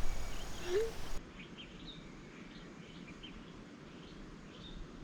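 Quiet riverside ambience with scattered short bird chirps; a louder stretch of noise in the first second cuts off abruptly.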